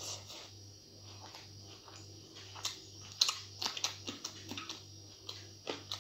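Close-miked chewing of a mouthful of rice mixed with fried greens: soft wet mouth clicks and smacks, coming thicker and louder from about halfway through.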